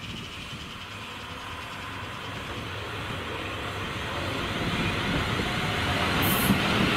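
A train approaching through the station, its running noise growing steadily louder, with a brief high hiss about six seconds in.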